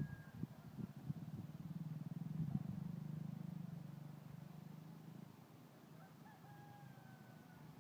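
Faint engine of a passing motor vehicle, a low hum that swells and then fades away over a few seconds. Two faint thin tones sound near the end.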